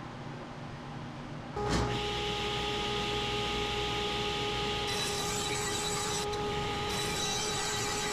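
Table saw switched on about a second and a half in and running with a steady whine, its blade tilted to 45 degrees cutting a miter along a white oak board.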